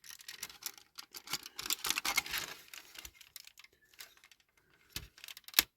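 Small clicks, scrapes and rattles of a 1/18 scale diecast model car's plastic interior being prised off the pegs it is clipped onto, with one sharp click near the end.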